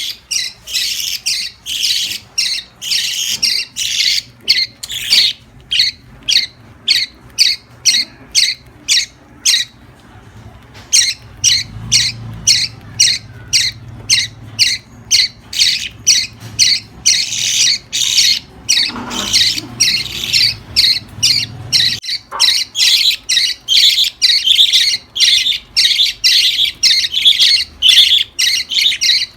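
Lovebirds calling: a long run of shrill, high-pitched squawking chirps repeating a few times a second, with a brief pause about ten seconds in.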